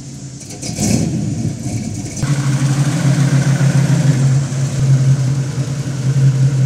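Classic muscle-car V8 engines running close by: an engine sound for about two seconds, then after an abrupt change a steadier, louder low engine note from a 1969 Ford Mustang Mach 1 V8, described as 'a little bit of a radical engine'.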